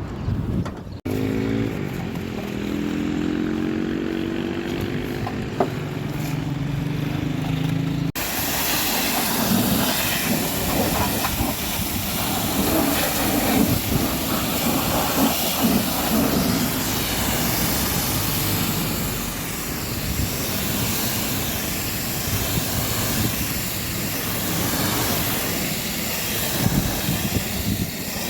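A motor running with a steady pitched hum for the first several seconds, then, after an abrupt cut, a high-pressure water jet hissing and spattering steadily against the vehicle.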